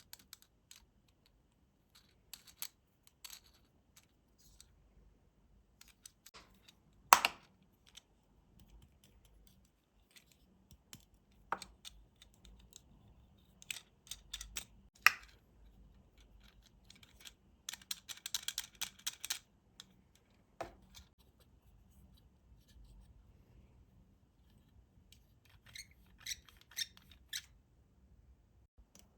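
Irregular small clicks, taps and scratching of hard objects being handled, with two louder knocks, one about seven seconds in and one about fifteen seconds in, and bursts of rapid clattering clicks around eighteen seconds and again near the end.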